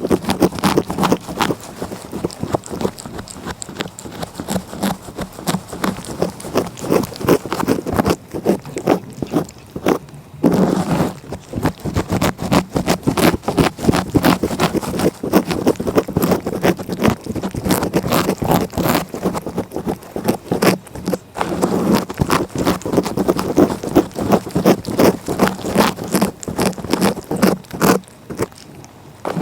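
Close-up cat licking: a rough tongue rasping against the microphone in a fast, dense run of short scraping strokes and clicks, with brief pauses about ten seconds in and near the end.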